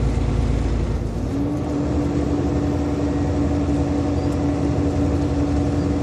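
Semi truck's diesel engine running steadily under load, heard from inside the cab, with a constant drone of road noise; about a second in, the engine note steps up slightly and then holds.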